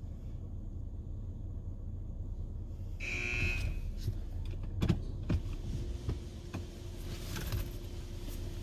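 Automatic car wash machinery: a steady low rumble, a short high buzzer-like tone about three seconds in, a few sharp knocks a couple of seconds later, then a steady hum.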